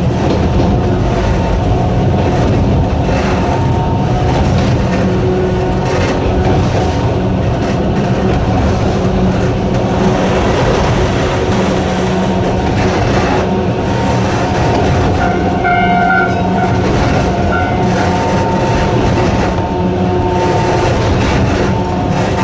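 Narrow-gauge electric train of the Sangi Railway Hokusei Line running, its nose-suspended traction motors and gears giving a steady whine of several held tones over a dense rumble of wheels on rail. Scattered clicks run through it.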